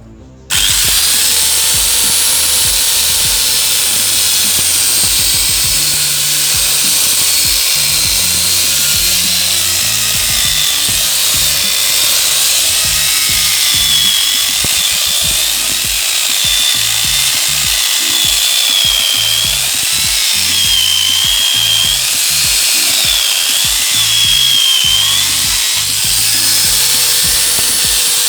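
Angle grinder fitted with a chainsaw-head attachment, running and cutting wood. It starts abruptly about half a second in, and its high motor whine wavers up and down as it takes the load.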